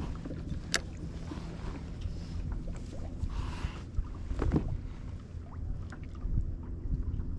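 Knocks and clicks of gear being handled on a fishing kayak, over a steady low rumble. A sharp click comes about a second in and a heavier knock around the middle.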